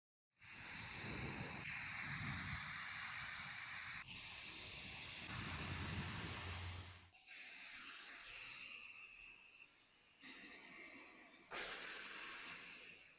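A steady hiss of spray or rushing air, cut into several short clips that change abruptly every few seconds.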